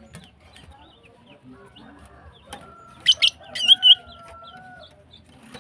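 Female greater green leafbird (cucak ijo) giving a quick cluster of loud, sharp high calls between about three and four seconds in, among faint scattered chirps. A rooster crows faintly in the background, one long drawn-out call through the middle.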